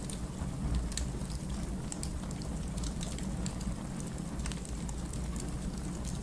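Firewood burning in a fireplace, crackling with scattered sharp pops over a steady low rumble.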